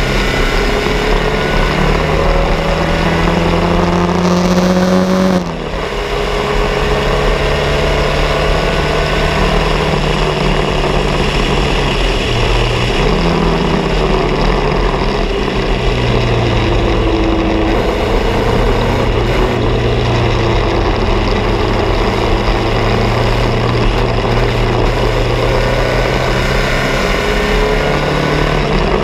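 Bianco race car's engine running hard, its pitch climbing with the revs. About five and a half seconds in it briefly drops away, as at a gear change or lift, then it pulls steadily again.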